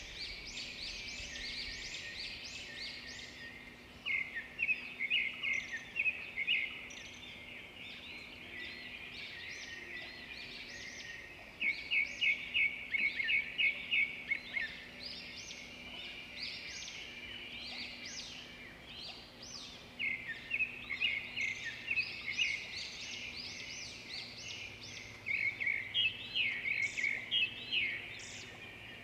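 Songbirds singing and chirping over one another. Several times there are louder runs of quick repeated notes.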